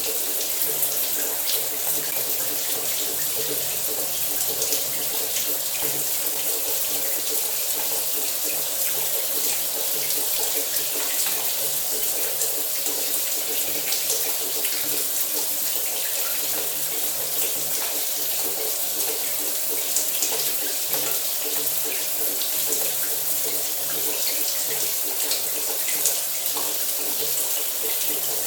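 Shower running: water spraying down in a steady, unbroken hiss.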